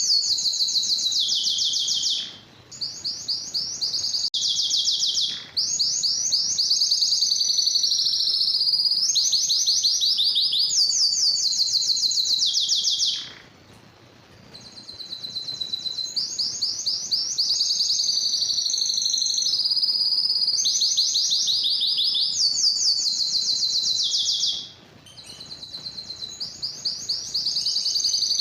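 Domestic canary singing: long phrases of rapid high trills, each a fast run of repeated notes, switching from one trill to the next, broken by brief pauses, the longest about halfway through.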